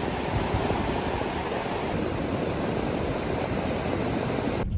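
Steady rushing noise of ocean surf, which stops abruptly near the end.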